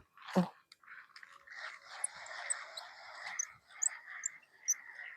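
Outdoor animal chorus: a steady chirring with many short high chirps over it, after a single sharp knock about half a second in.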